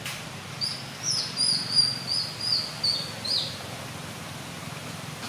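A songbird calling: a quick run of about eight short, high notes, each dipping slightly in pitch, starting just under a second in and ending a little past three seconds, over a steady low hum.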